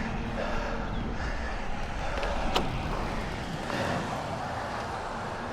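Wind rushing over the microphone and road traffic noise during a bicycle ride in city streets, with one sharp click about two and a half seconds in.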